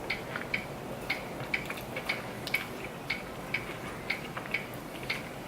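Clock ticking steadily, about twice a second, with fainter irregular clicks in between.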